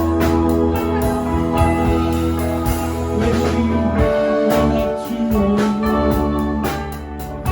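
Live rock band playing an instrumental stretch, guitar to the fore over bass and drums keeping a steady beat.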